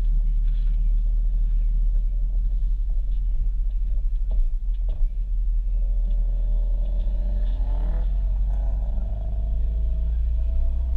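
Integra's engine running at low speed, heard inside the cabin as a heavy, steady low rumble while the car rolls slowly. About six seconds in, a wavering higher tone joins it for a few seconds.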